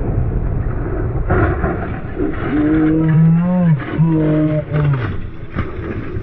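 Low vehicle engine and road rumble, with a person's voice crying out in three long, drawn-out shouts from about two seconds in.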